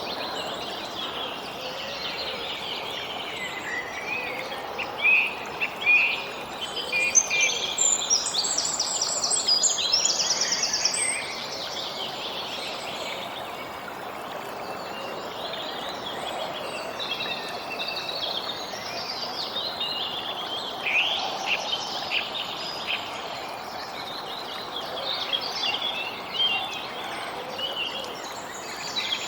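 Songbirds chirping and singing, with several overlapping calls and a fast trill a few seconds in, over a steady soft background hiss.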